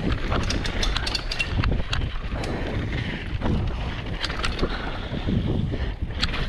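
Wind rushing over the microphone of a mountain bike riding fast down a dirt jump trail, with a steady low rumble and frequent sharp clicks and rattles from the bike over rough ground.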